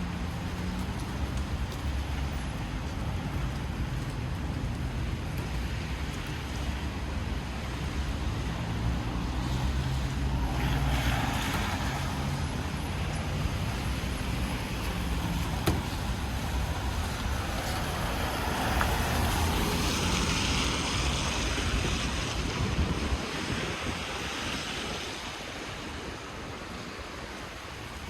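Rainy city street traffic: a low engine rumble and the hiss of tyres on a wet road, swelling as vehicles pass about ten seconds in and again around twenty seconds. The rumble drops away near the end.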